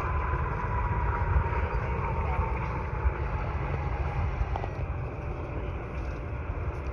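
Boeing 747-8F's GEnx jet engines passing overhead: a steady rumble with a high whine that slowly falls in pitch as the aircraft goes by.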